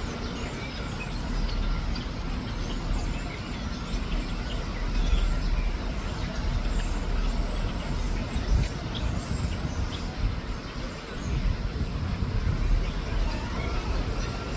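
A low, uneven rumble throughout, with many short, faint, high-pitched bird chirps scattered through it.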